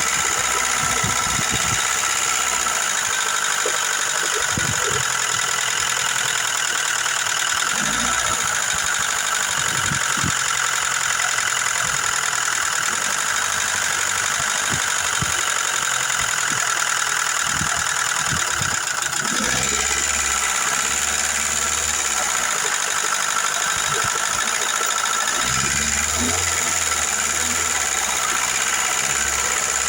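Car engine idling steadily with hydraulic lifter (tappet) noise, from lifters the owner judges to have drained empty, with a little light oil added to help them fill.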